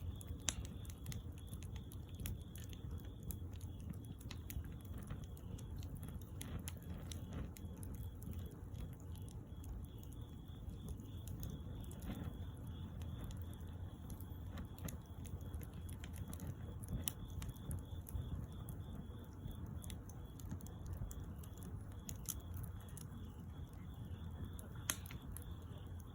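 Wood bonfire crackling: irregular sharp pops and snaps over a steady low rumble of the burning fire.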